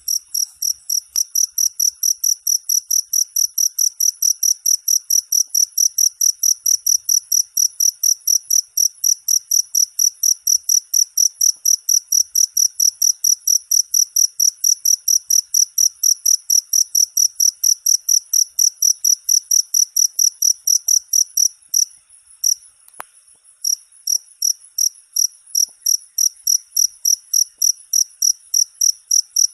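Cricket chirping steadily in quick, high-pitched pulses, about four a second, with a short break about 22 seconds in.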